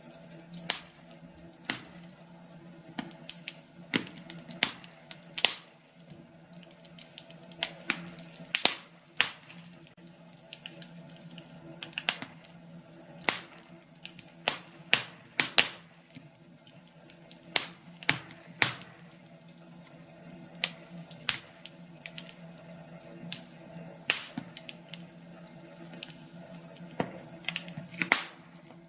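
Wood fire crackling, with irregular sharp pops and snaps of burning logs over a steady low hum.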